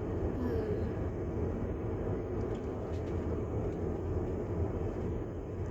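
Steady low rumble of a moving vehicle, with no distinct knocks or changes.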